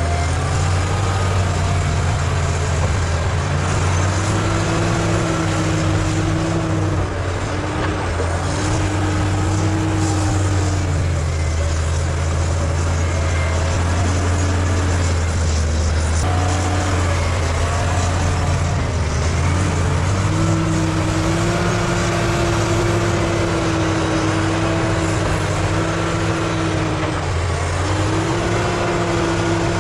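Bulldozer's diesel engine running steadily under load, its note shifting and dipping briefly several times.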